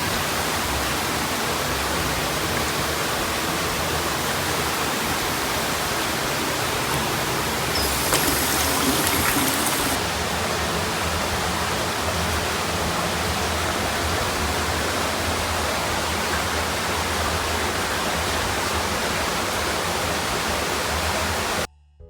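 Steady rushing of river water, with a brighter, hissier stretch about eight seconds in. It cuts off suddenly near the end.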